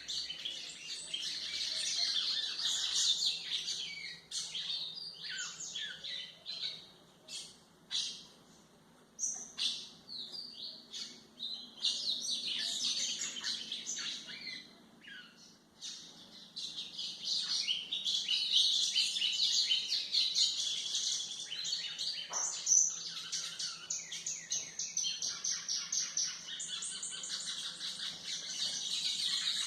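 White-throated seedeater (golinha) singing: long, fast, high-pitched twittering phrases, broken by short pauses.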